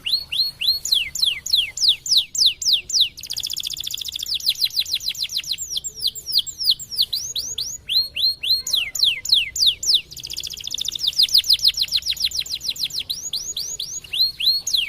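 Domestic canary (a white canary) singing a long, continuous song. Very fast rolling trills of rapid repeated notes alternate with slower runs of notes that each sweep sharply down in pitch, about three or four a second.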